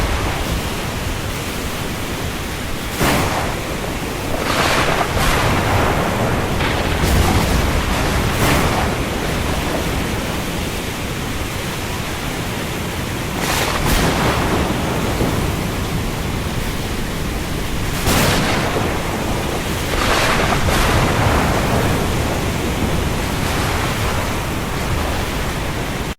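Steady heavy rain falling on the sea, a dense hiss with louder surges every few seconds. The sound drops out abruptly at the very end.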